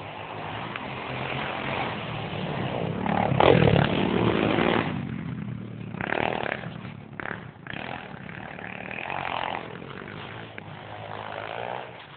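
Pit bike engine running and revving. It swells to its loudest about three and a half seconds in, as if passing close, then comes and goes in several further surges of throttle.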